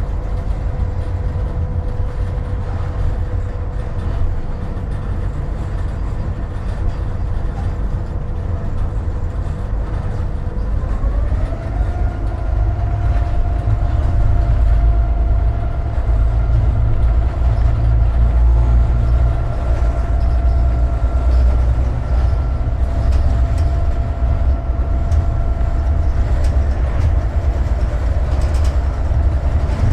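Heard from inside the locomotive cab, the EMD 16-645 diesel engine of a GP38-2 runs with a heavy low rumble and a steady whine. About eleven seconds in the whine rises in pitch and the engine gets louder as it speeds up, and near the end the pitch slides back down.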